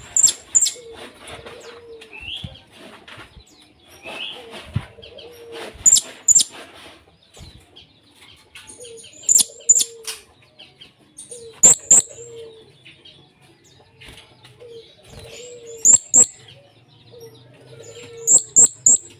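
Male blue-crowned hanging parrot (serindit) giving shrill, very high calls in quick clusters of two to four notes, repeated every few seconds. Under them a lower call repeats over and over.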